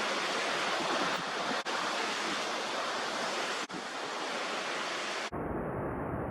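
Strong wind rushing, a steady loud hiss with two brief breaks, which ends about five seconds in.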